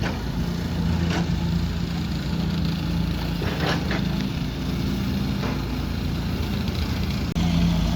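A motor engine running steadily with a low hum. A few knocks sound about a second in and again around the middle, and the engine gets louder shortly before the end.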